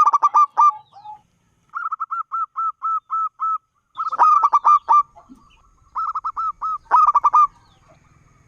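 Zebra dove (perkutut) singing: about five phrases of rapid, staccato cooing notes. Some phrases are quick tumbling runs and others are even rows of about eight notes.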